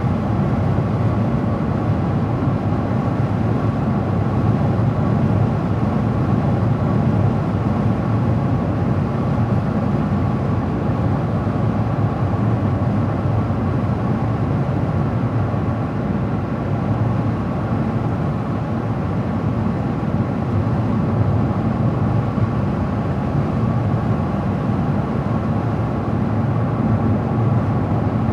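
Steady road noise of a car driving along: tyre rumble and engine hum at an even level, with a faint steady whine above it.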